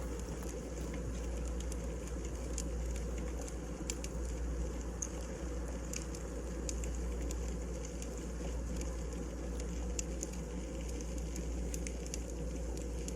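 Wood fire burning in a fireplace: a steady low rumble of flames with frequent small crackles and pops from the firewood.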